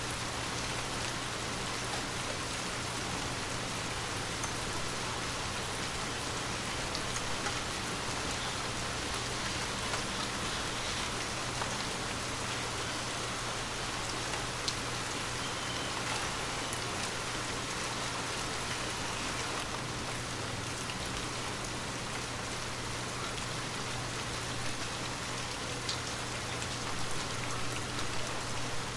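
Light, steady rain on a window: a continuous hiss with scattered single drops ticking.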